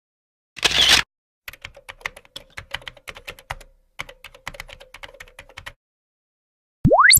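Computer keyboard typing sound effect: a run of quick, irregular key clicks with a short break in the middle. A brief burst of noise comes before it, and a quick rising whistle follows near the end.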